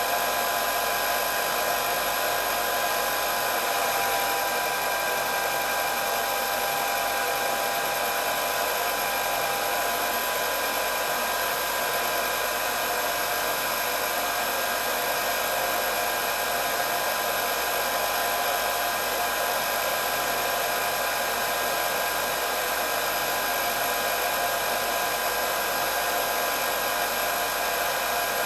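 Hair dryer running continuously: a steady airflow hiss with a constant motor whine.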